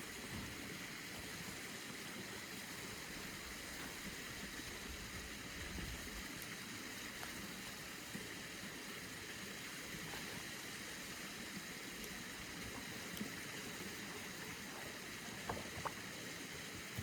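Faint, steady rushing background noise with a few light ticks near the end.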